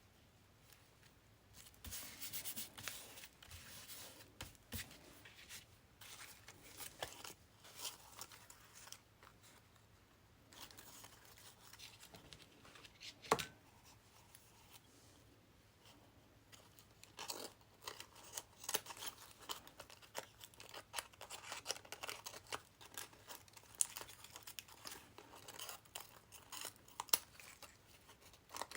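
Paper being handled and torn, crackling and rustling in irregular bursts, with a single sharp tap about halfway through.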